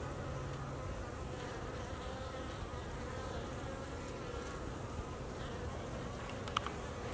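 Honey bees buzzing in a steady hum, with a faint click near the end.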